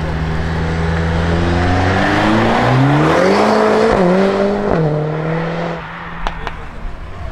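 Mercedes-AMG A45 S turbocharged four-cylinder engine at low, steady revs, then revving up hard as the car accelerates away. Two quick upshifts drop the pitch about four and five seconds in, and the sound then fades as the car drives off. Two short sharp cracks follow near the end.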